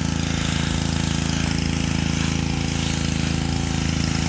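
Black Max pressure washer's Honda small four-stroke engine running steadily, with the hiss of the high-pressure water spray over it.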